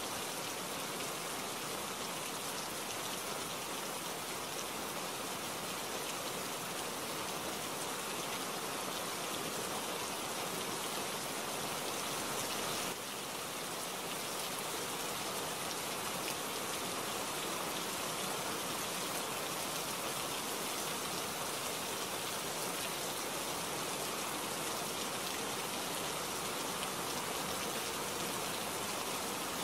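Steady rainfall, an even hiss with no thunder, dipping slightly in level about halfway through.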